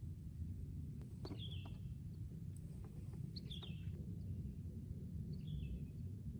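A bird calls three times, about two seconds apart, each a short call falling in pitch, over a steady low rumble of wind.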